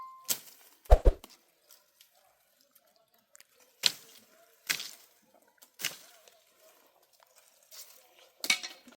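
Six or so short, sharp knocks and snaps, spaced irregularly a second or more apart, with a deeper thud about a second in and a small cluster near the end.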